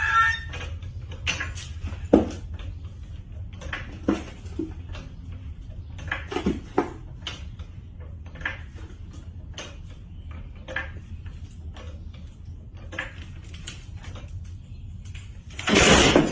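Steady low hum of a vehicle with scattered light clicks and knocks, then a loud half-second impact near the end: a car crash.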